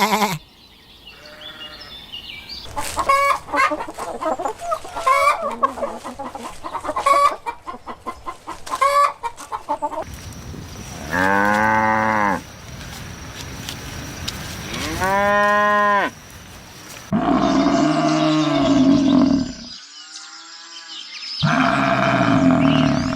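Chickens clucking in a flurry of short calls. Then, from about halfway, come four long, loud calls that fit cows mooing. A brief bleat sounds right at the start.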